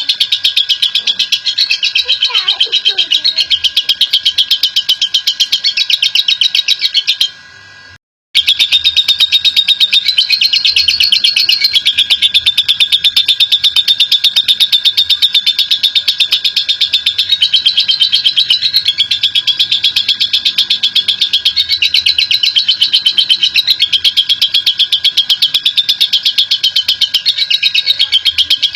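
Lovebird giving a long 'ngekek': a loud, fast, unbroken chattering trill of shrill notes, with the pitch wavering up and down. It breaks off for about a second around seven seconds in, then carries straight on.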